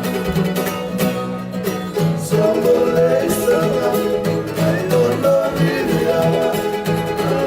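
Live music: a small band playing plucked string instruments with singing.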